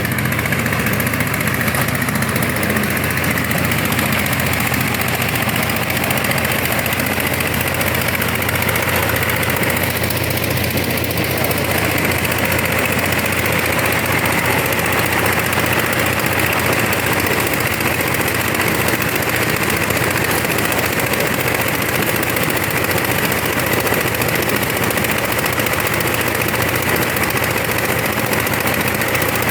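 Engine-driven corn sheller that shells ears without husking, running steadily with a dense, fast rattle of knocking impacts over a constant engine hum.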